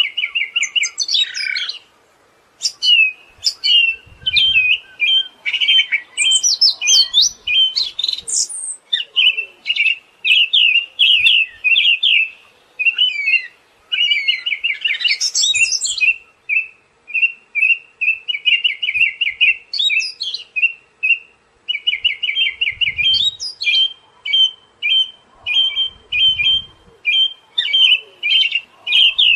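Siberian thrush singing a long, almost unbroken song of rapid chattering trills and twittering notes, with a brief pause about two seconds in.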